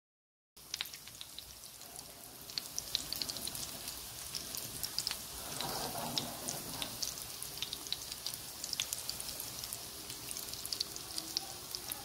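Minced-meat kababs shallow-frying in oil in a non-stick pan: a steady sizzle full of small spits and pops, starting about half a second in.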